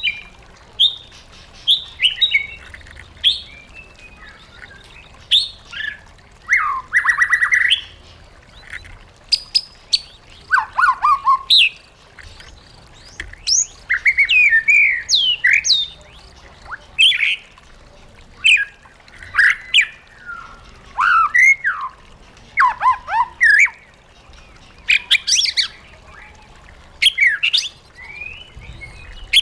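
White-rumped shama singing: a run of varied whistled phrases, sweeping notes and short chattering bursts, separated by brief pauses.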